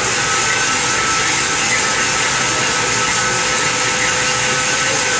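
CNC lathe machining a DS38 box connection: steady cutting and machine noise with a bright hiss that comes up at the start and a couple of faint steady tones.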